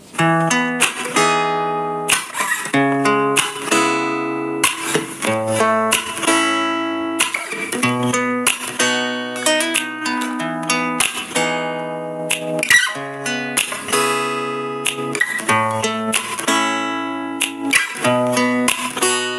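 Background music: an acoustic guitar strumming and picking chords, each one struck and left to ring.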